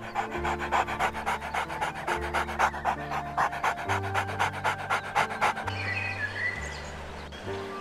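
Boxer dog panting rapidly, about six quick breaths a second, over background music. The panting stops about two-thirds of the way through, leaving the music and a few faint chirps.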